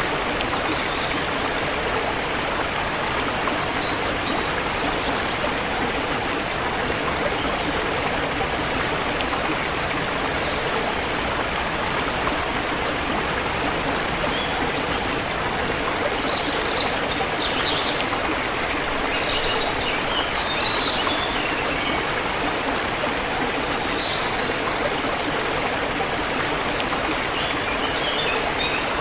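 A forest river flowing steadily, with a constant rush of water. Small birds chirp in short bursts over it in the second half.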